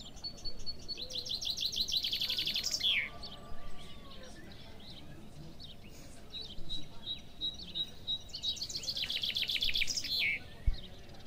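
Songbird singing two fast trilled phrases, each about two seconds long and ending in a falling note, with faint scattered chirps in between. A brief low thump near the end.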